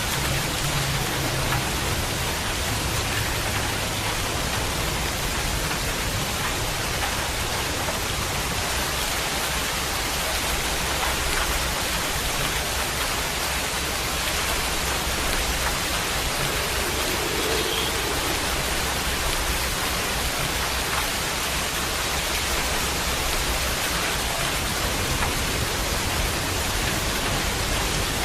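Steady rain falling, an even hiss with faint drop ticks and a low rumble underneath.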